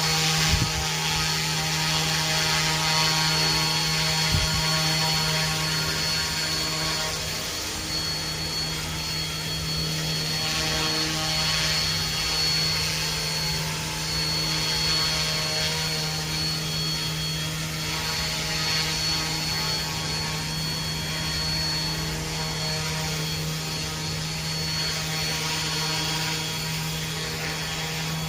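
RC model UH-1 Huey helicopter flying: a steady buzzing hum from its rotor and motor, with a thin high whine that fades in and out. A couple of knocks sound about half a second and about four seconds in.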